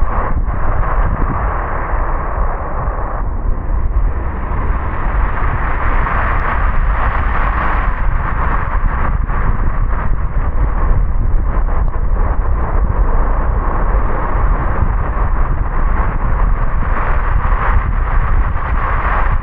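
A car driving on a wet road in the rain: steady tyre and road noise over a low rumble.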